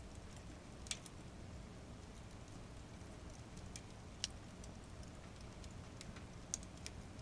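Firewood burning in a campfire fire pit: a steady low rush with scattered crackles and three sharp pops.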